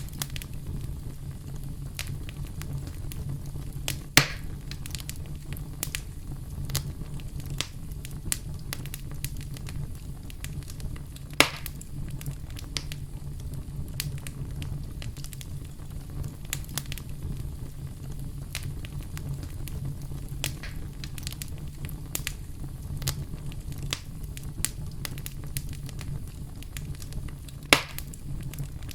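Campfire burning with a steady low rumble and constant crackling, with three loud pops spread through it.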